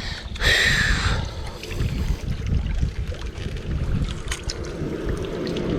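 Wind buffeting the microphone in a steady low rumble, with a short rushing noise lasting under a second about half a second in.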